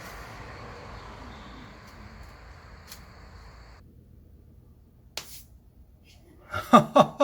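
Steady background hiss that cuts off about four seconds in, then a sharp click. Near the end a person's voice breaks in, chuckling or starting to speak, and it is the loudest sound.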